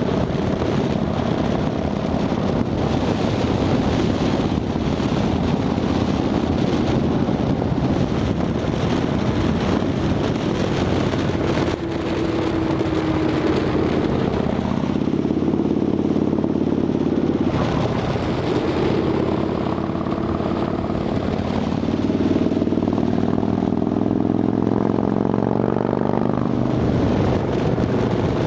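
Harley-Davidson Dyna Fat Bob V-twin running through Vance & Hines Shortshots exhaust with quiet baffles. Its pitch climbs twice in the second half, dropping briefly in between, as the engine speeds up.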